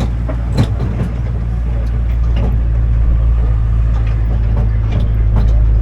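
Tourist road train's engine running with a steady low drone, heard from aboard, with scattered clicks and rattles over it.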